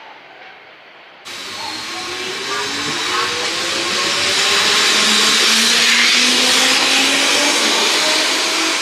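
Electric train passing close by: loud rushing and rail noise that starts abruptly about a second in and builds toward the middle, with a motor whine slowly rising in pitch as it accelerates.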